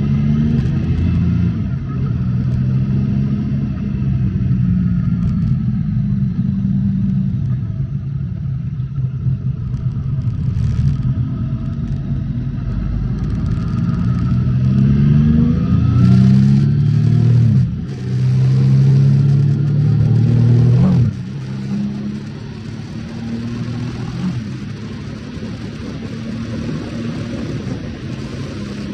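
Triumph Speed Triple S 1050's three-cylinder engine accelerating through the gears: its pitch climbs repeatedly, with brief dips between climbs. About two-thirds of the way through the throttle is rolled off, and the engine settles to a quieter, steady run.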